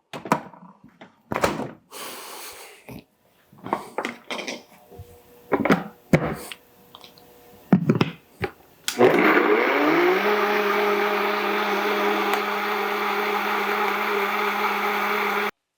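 A few scattered knocks and clatters, then a countertop blender motor starts about nine seconds in, spins up in pitch over about a second and runs steadily while blending a sauce, then stops abruptly near the end.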